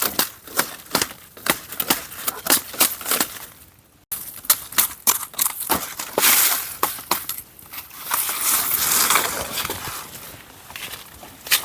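Dry leaves and twigs crunching and snapping in a rapid series of sharp cracks. About four seconds in the sound breaks off and cuts back in suddenly, followed by a longer, denser crunching rustle.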